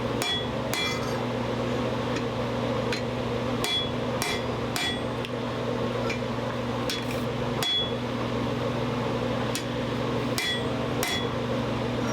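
Blacksmith's hammer striking a hot steel bar laid over a blunt hardy cutter set in the anvil, about a dozen irregular blows, each with a short ring from the anvil: cutting the bar off on the hardy.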